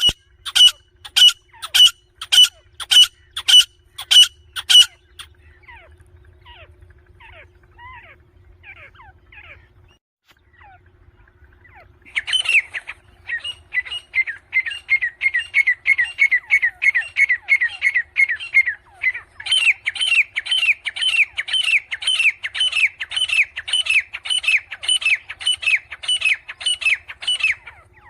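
Grey francolin calling: about seven loud, harsh calls in quick succession, a few faint chirps, then from about twelve seconds in a long fast run of repeated rising notes, about three a second.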